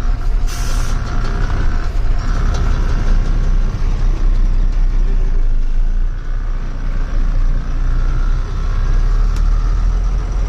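Truck engine running steadily under way, a continuous low drone with road noise and a faint whine above it. There is a brief hiss about half a second in.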